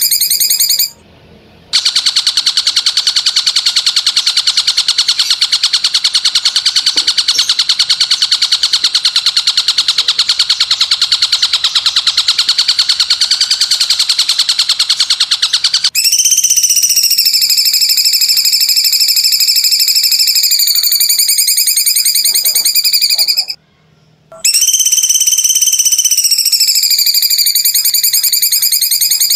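A birdsong training (masteran) recording: a loud, high-pitched, very fast pulsing trill held in long phrases. It breaks off briefly about a second in and again near the end, and its pitch dips slightly and then settles about halfway through.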